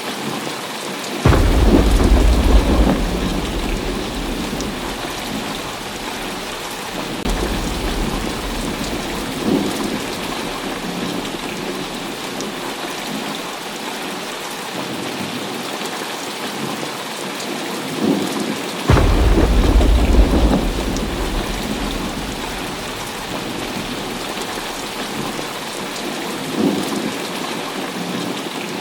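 Heavy rain falling steadily, with thunder: two loud claps about a second in and near two-thirds of the way through, each rumbling away over a few seconds, and fainter rolls of thunder in between.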